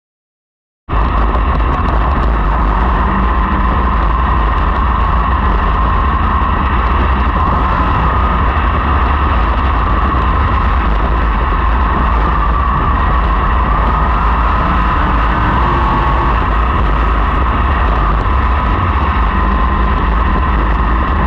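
Sprint car engines running at speed around a dirt oval: a loud, steady engine noise with a slightly wavering pitch. It cuts in suddenly about a second in.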